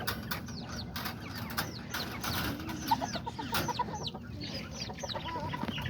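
Many small chickens clucking and chirping in short, repeated, falling calls, with a steady low background hum.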